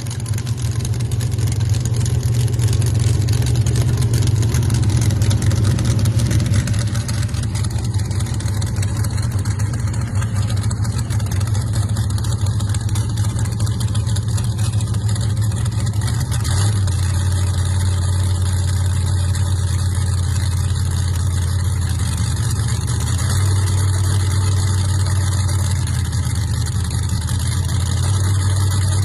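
A dragster's engine idling steadily, its pitch stepping down slightly about two-thirds of the way through.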